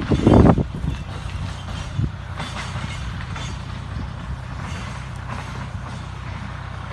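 Tractor engine running steadily, a low even drone, with a short louder burst at the very start and a single knock about two seconds in.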